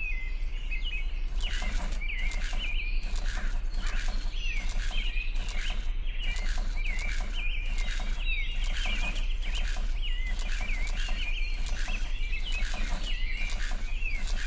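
Small birds chirping over and over in short up-and-down glides, above a steady hiss and low hum, with short regular ticks about twice a second.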